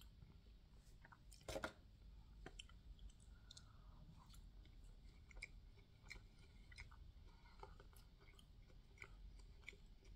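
Quiet close-miked chewing of breakfast food: soft, wet mouth clicks scattered throughout, with a louder short burst about a second and a half in.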